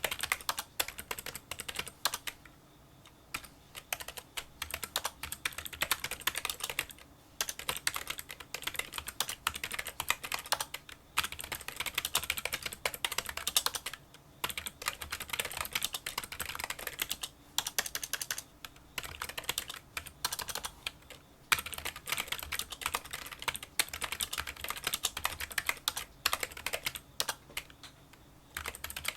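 Fast touch-typing on a Kinesis Freestyle Solo split keyboard with membrane key switches: a dense run of small clicking keystrokes, broken by brief pauses several times.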